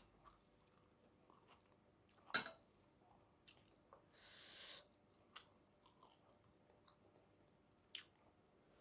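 Faint chewing and mouth sounds of a person eating, with a sharp click about two and a half seconds in, a short hiss around four seconds, and another click near the end.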